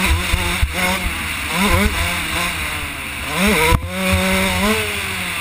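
2001 Kawasaki KX125's single-cylinder two-stroke engine under riding load, its revs rising and falling with the throttle and climbing sharply twice. A sharp knock just before four seconds in, with wind buffeting the helmet camera.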